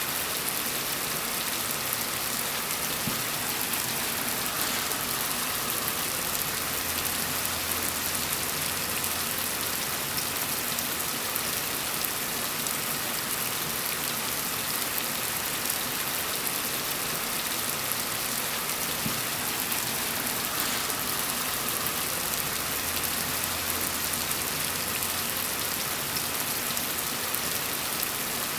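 Steady rain falling, an even hiss of many drops, with a faint low rumble that swells twice.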